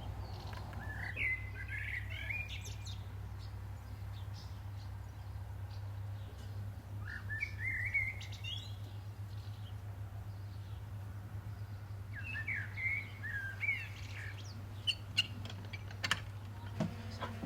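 A songbird singing three short warbling phrases several seconds apart, over a steady low hum, with a few sharp clicks near the end.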